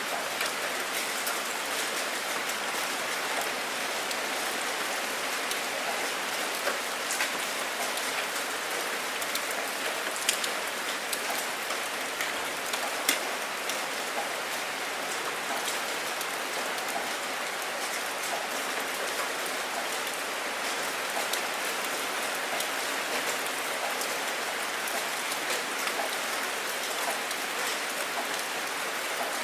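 Steady rainfall, an even hiss of many drops with scattered louder individual drop hits.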